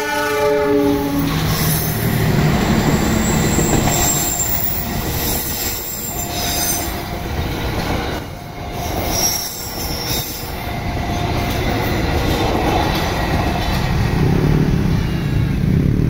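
A CC206 diesel-electric locomotive's horn sounds as it passes, its pitch falling, and then the passenger coaches run past at speed: a steady loud rumble of wheels on rail with a few brief squeals.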